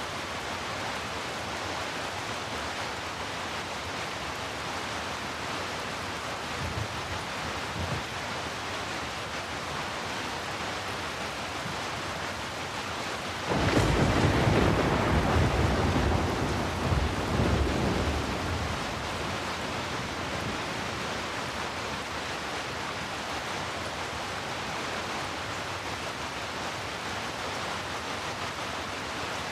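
Steady falling rain, with a roll of thunder breaking in suddenly about halfway through. It rumbles loudly for about five seconds and then fades back under the rain. Fainter low rumbles come a few seconds earlier.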